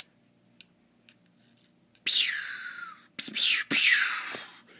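A man's voice making three loud, breathy hissing noises with his mouth, each one falling in pitch. They start about two seconds in, after a near-silent stretch with a few faint clicks.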